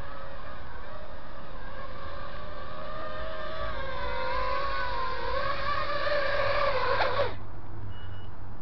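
Eachine V-Tail 210 quadcopter's brushless motors and propellers whining in flight, the pitch wavering with the throttle and growing a little louder, then cutting off suddenly about seven seconds in as the motors stop.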